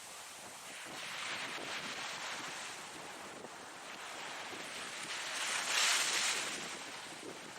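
Ocean surf: waves breaking and washing in a steady hiss, with one surge about a second in and a louder one near the end.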